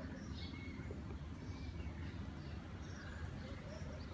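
Birds chirping in short, scattered high calls over a steady low rumble.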